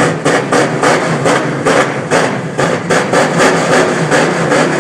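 NASCAR stock car's V8 running just after start-up, idling unevenly with a pulsing beat about three to four times a second.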